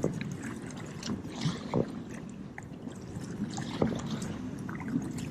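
Choppy water sloshing and lapping around a kayak, with irregular small splashes.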